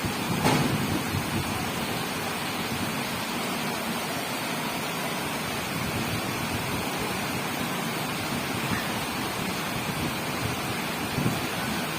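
Steady downpour of rain, a continuous even hiss, with one short sharp knock about half a second in.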